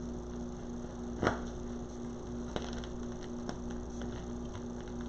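Steady low electrical hum with a few faint clicks and taps of wreath materials being handled, the sharpest about a second in and two smaller ones later.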